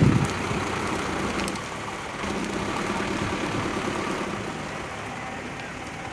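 Truck engine running, with a short loud rev right at the start and a stronger stretch of engine load for about two seconds midway, then easing back.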